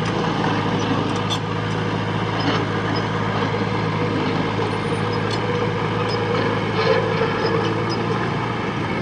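A heavy machine's diesel engine running steadily, with a few faint clinks over it.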